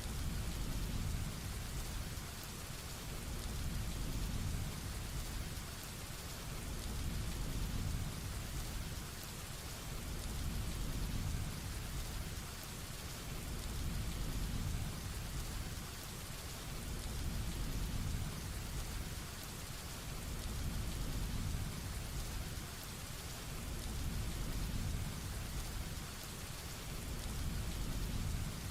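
Heavy rain falling steadily with a dense hiss, under a low thunder rumble that swells and fades every three to four seconds.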